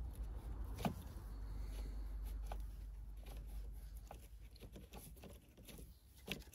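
Faint rustling and scattered light clicks of a van's wiring harness being handled while a broken wire is traced, over a low steady hum.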